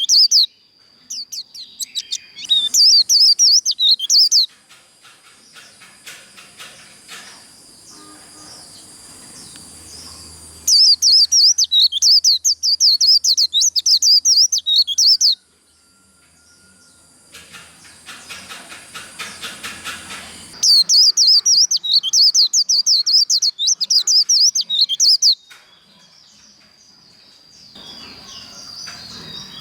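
White-eye (vành khuyên) singing its fast 'líu' song: three bursts of rapid, high-pitched warbling trills, each about four to five seconds long, with softer scattered chirps between them. A faint steady high tone runs underneath.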